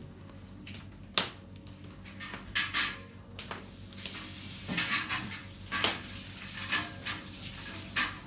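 A utensil working in a copper cheese kettle: irregular knocks, clinks and short scrapes against the metal, a few of them sharp.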